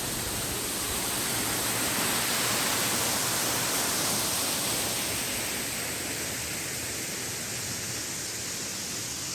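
A 45-foot waterfall plunging into a pool, a steady rushing roar that swells slightly a few seconds in and then eases back.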